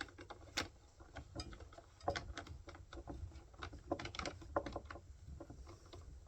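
Irregular small metallic clicks and rattles of a chainsaw bar nut being threaded on by hand.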